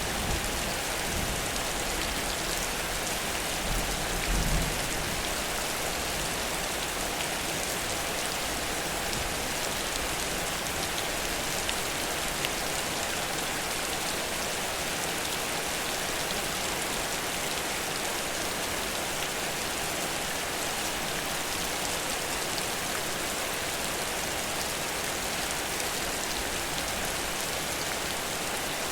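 Heavy rain falling steadily, a dense even hiss of downpour, with a brief low thump about four seconds in.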